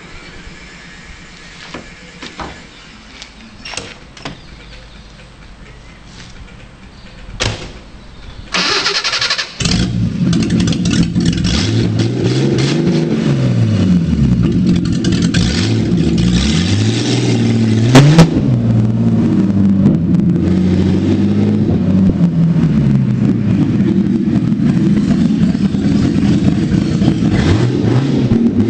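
Stage 1 BMW M30B35 straight-six cranked on the starter and catching about nine seconds in after a few clicks and knocks, then running loud and being revved, its pitch rising and falling again and again. A single sharp crack comes about halfway through.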